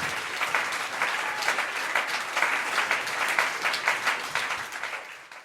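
Live audience applauding and clapping after a song ends, fading out near the end.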